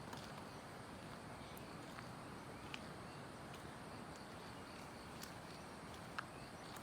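Faint forest ambience: a steady low hiss with a few sharp ticks from footsteps on the trail, and a faint pulsing insect or bird trill coming in near the end.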